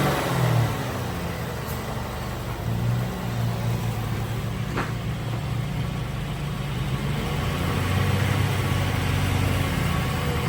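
A 2013 Mazda CX-9's 3.7-litre V6 running, its engine speed falling off at the start and building again toward the end, during an engine and transmission test. A single sharp click about halfway through.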